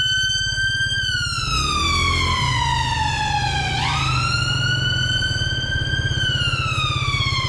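Ambulance siren on a slow wail: its pitch sinks slowly, sweeps back up quickly about four seconds in, then sinks again. A motorcycle engine runs steadily underneath.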